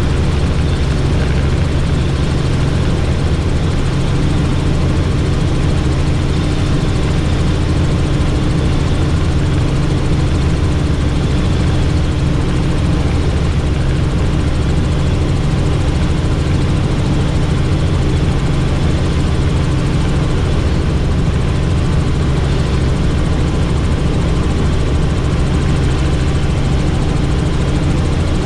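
Helicopter in flight heard from on board: a steady, loud rotor and turbine drone with a low, even hum.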